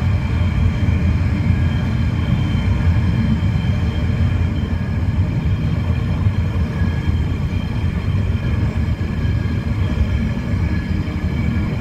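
Loaded freight train rolling past: a steady, unbroken rumble of wagons on the rails, with a faint steady whine above it.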